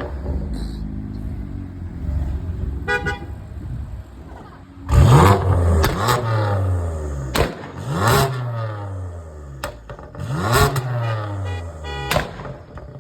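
A performance car's engine revved hard several times in quick blips, its pitch rising and falling with each, with sharp cracks at several of the revs.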